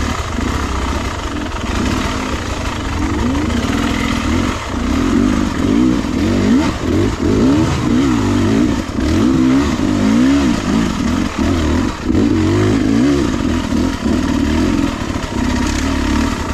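Beta 300RR two-stroke dirt bike engine being ridden, its note rising and falling again and again as the throttle is opened and closed.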